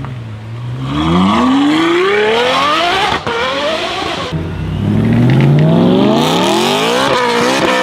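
Sports car engine at full throttle, accelerating twice. Each time its pitch climbs steadily from a low note, and there is a brief break near the top, about three seconds in and again near the end.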